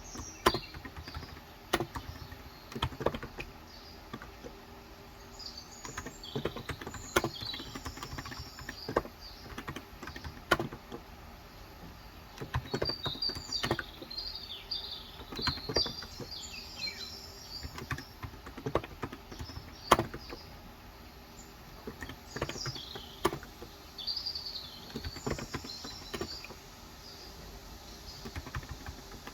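Scattered key presses on a Cox Endeavor electrostatic-capacitive (Topre-style) tenkeyless keyboard with 35 g switches, a few strokes at a time with pauses, as in editing rather than steady typing. Small birds chirp in short bursts every few seconds.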